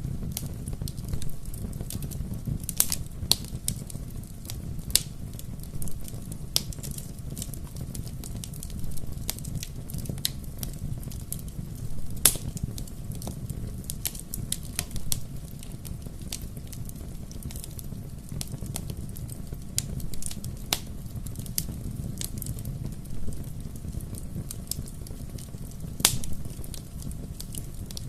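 Bonfire crackling: irregular sharp pops and snaps over a steady low rumble of burning wood. A louder pop comes about twelve seconds in, and another near the end.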